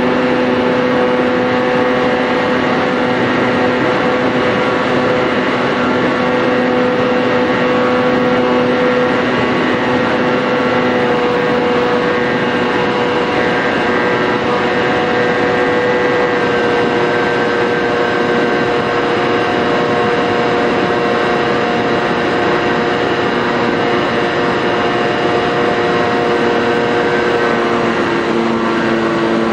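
Motor and propeller of a Senorita RC model airplane running steadily in flight, heard from on board: a steady pitched drone over rushing air. Near the end the pitch drops a little as the throttle eases.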